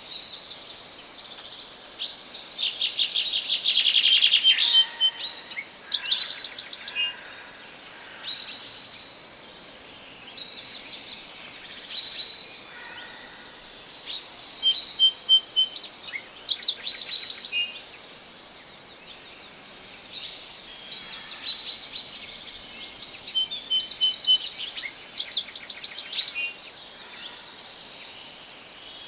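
Several songbirds singing together in a forest, overlapping trills and quick repeated chirps over a soft steady background hiss. The song swells louder a few times.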